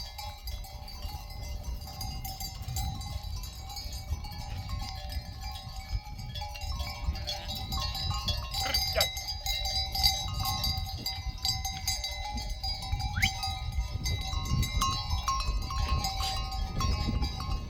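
Livestock bells ringing, many steady tones overlapping and starting and stopping, over a low rumble.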